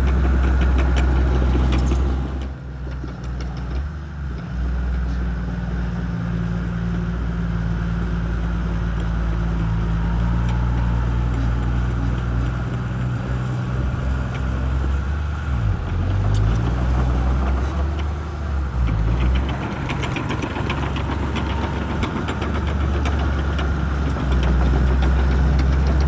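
Shantui crawler bulldozer's diesel engine running hard with clanking tracks. The engine eases off about two seconds in, dips and swings in pitch around the middle, and comes back up to full power near the end.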